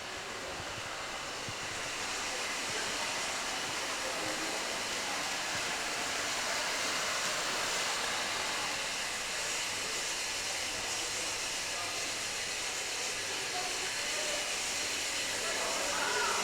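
Steady hissing background noise that grows a little louder over the first couple of seconds, with a faint voice near the end.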